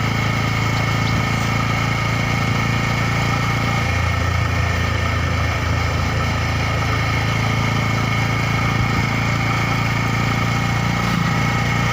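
Motorcycle engine running at a steady pace while riding, a continuous even hum with no revving.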